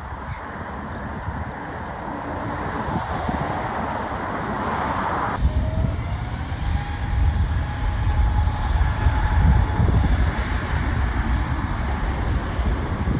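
Aircraft engine noise with heavy low rumble and wind on the microphone. The sound changes abruptly about five seconds in, and after that a faint whine rises slowly in pitch.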